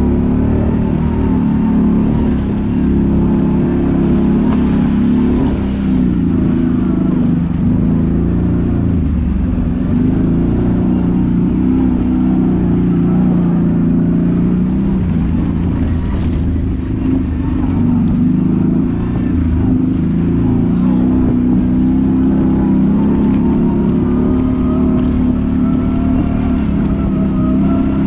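ATV engine running continuously under way on a dirt trail, its pitch wavering with the throttle and rising near the end.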